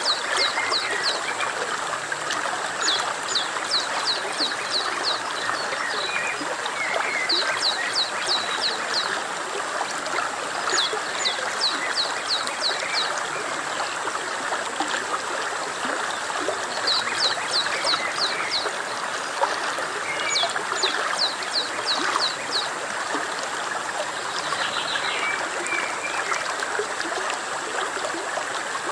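Steady rushing and trickling of a small stream. Over it a songbird sings short phrases of five or six quick high notes, repeated several times a few seconds apart.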